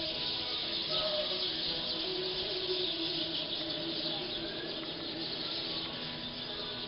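Dense, continuous chorus of a large flock of black birds calling over one another as they gather in a night-roost tree, many short calls overlapping.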